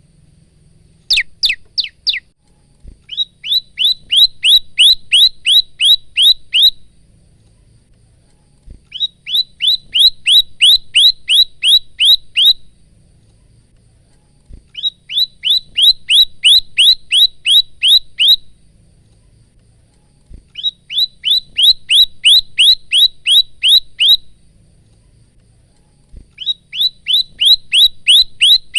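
Male olive-backed tailorbird (prenjak lumut) singing loud, repeated phrases: each is a rapid run of about a dozen sharp, down-slurred chirps at about three a second, lasting some three and a half seconds, and the phrases are separated by pauses of about two seconds. A brief burst of four steeper, falling notes comes about a second in.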